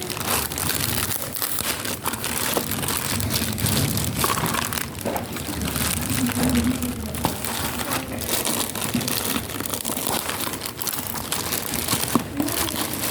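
Plastic packaging crinkling and rustling steadily as a parcel is unwrapped by hand, with many small crackles.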